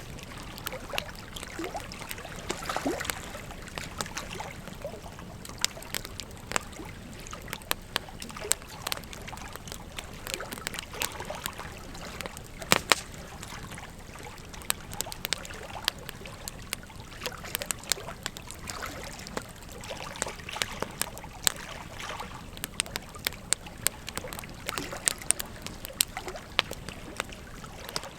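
Wood fire crackling with many irregular sharp pops, one louder snap about halfway through, over a steady rush of flowing river water.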